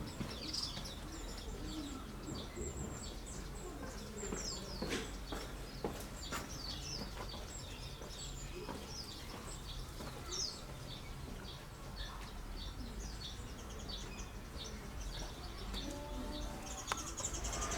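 Many small birds chirping, short high calls repeating throughout over a low background hum, with a few soft knocks.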